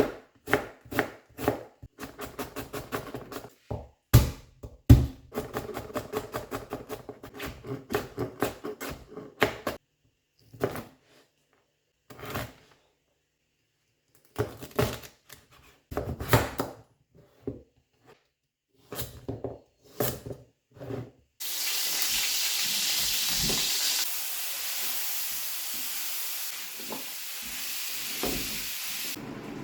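A knife chopping on a cutting board in quick runs of strokes with short pauses, then a steady hiss that starts suddenly about two-thirds of the way through and drops off near the end.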